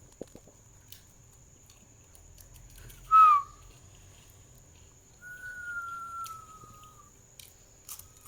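Ringneck parrot calling: one short, loud whistled note about three seconds in, then a longer, quieter whistle held steady and falling slightly in pitch for about two seconds. A few faint clicks between.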